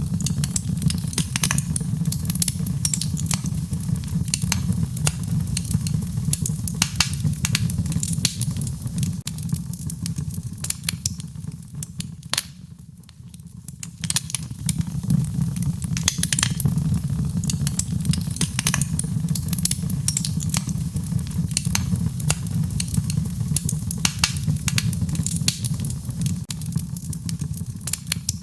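Wood fire in a fireplace crackling, with frequent sharp pops and snaps over a steady low roar; it dips briefly about halfway through.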